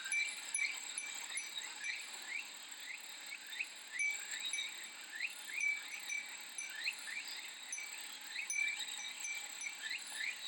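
Japanese wind chime (fūrin) tinkling in quick, irregular strikes over a steady high-pitched drone of cicadas.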